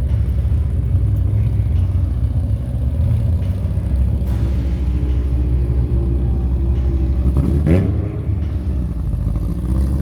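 Steady low rumble of a car engine running, with a quick sweep rising sharply in pitch a little under three-quarters of the way through.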